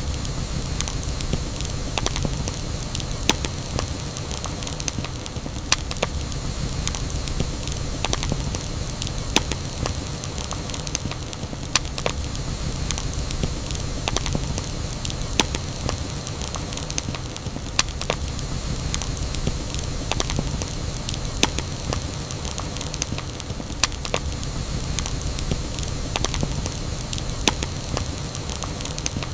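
Campfire burning with a steady low rush of flames and scattered sharp crackles and pops from the burning wood.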